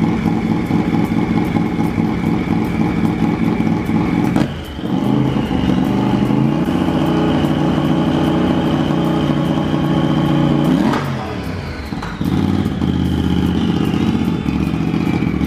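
Turbocharged Polaris RZR 1000 twin-cylinder engine idling steadily with a high whine above it. Its speed dips sharply and rises to a higher idle about four seconds in, then falls back to the lower idle about eleven seconds in.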